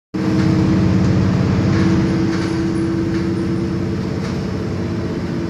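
Interior of a city bus on the move: the engine's steady hum and road rumble.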